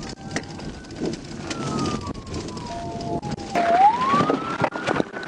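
Police car siren wailing: one slow fall in pitch, then a quicker rise back up, over road noise with scattered clicks.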